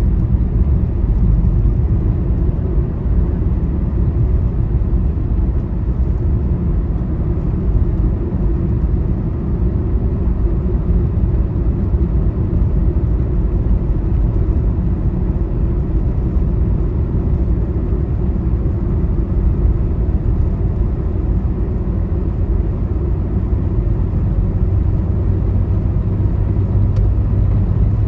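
Road vehicle travelling on a highway: a steady low rumble of engine and tyre noise. Near the end a low steady engine hum comes up under the rumble.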